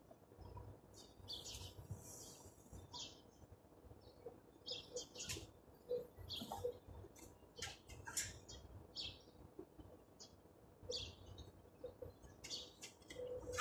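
Birds chirping faintly: short, scattered high chirps every second or so, over a faint low rumble.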